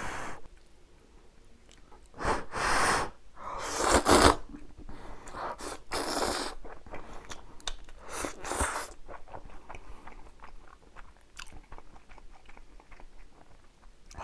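Close-miked eating of spicy jjapagetti noodles: a few loud noisy draws of noodles in the first half, the loudest about four seconds in, then steady chewing with many small wet clicks.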